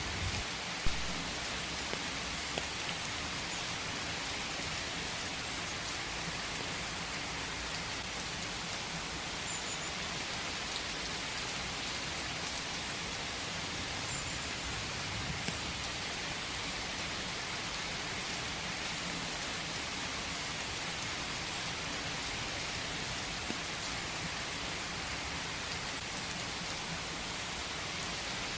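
Steady rain falling in a forest, with a few louder individual drops ticking through it, the sharpest about a second in.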